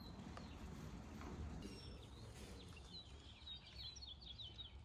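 Faint outdoor ambience with a small bird chirping: a quick run of short, high chirps from about two and a half seconds in to just past four seconds.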